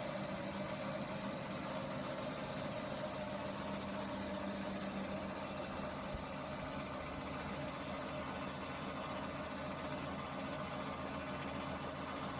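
Dyas 3 BDC-1200 machine with its bandsaw running steadily: an even mechanical hum with a few steady tones.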